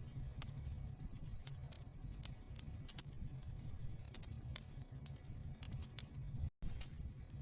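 Wood fire burning in a fireplace: irregular sharp crackles and pops over a low, steady rumble. The sound cuts out for a split second about six and a half seconds in.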